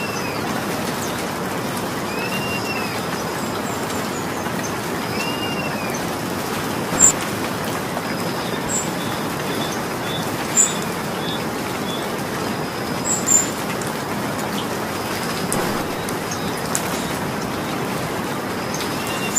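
Steady rain falling. A bird gives three short rising-and-falling calls in the first six seconds, and a few short, sharp, high sounds stand out in the middle.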